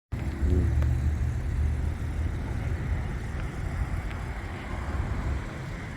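A car's engine running with a low, steady rumble.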